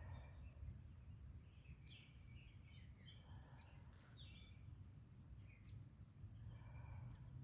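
Faint outdoor ambience: small birds chirping and trilling on and off, over a steady low rumble.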